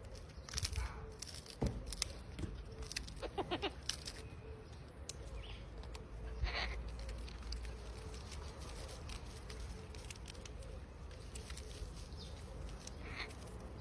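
A cockatoo in a tree making a few short calls, with scattered clicks and scratches from the branches and a low rumble of wind in the background.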